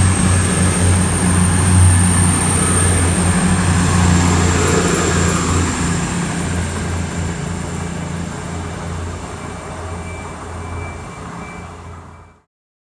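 Class 222 Meridian diesel multiple unit pulling out, its underfloor diesel engines running with a steady low drone over rail noise. The sound fades as the train leaves, then cuts off suddenly near the end.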